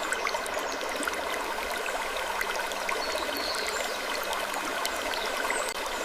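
Steady trickling, running-water ambience with many small scattered clicks and ticks through it.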